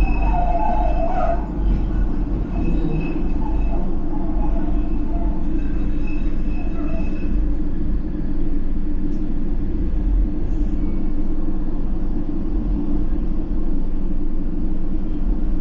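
A train running steadily along the track with a continuous low rumble. A thin high whine in the first half fades out about seven seconds in.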